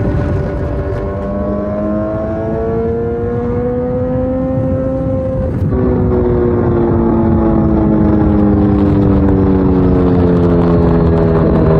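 Kawasaki Z900's inline-four engine through an Akrapovic full exhaust system, ridden on the road. The engine note climbs slowly for about five seconds, drops suddenly, and sinks for several seconds as the throttle is rolled off. It jumps back up in pitch at the very end, over wind and road noise.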